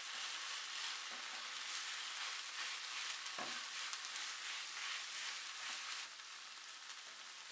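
Chicken filling sizzling faintly in a non-stick frying pan as it is stirred with a spatula, with a few soft knocks of the spatula; the sizzle drops a little about six seconds in.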